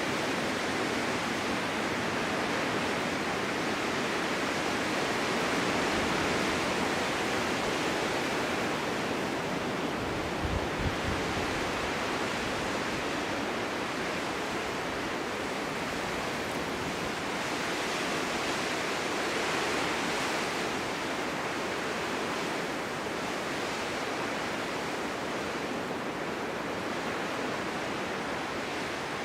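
Snowstorm wind blowing steadily, a broad rushing hiss that swells and eases slowly in gusts. A brief low thump comes about ten seconds in.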